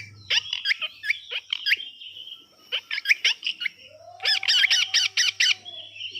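Parrot calling: a string of short, shrill squawks, with a lull about two and a half seconds in, then a rapid run of about six calls.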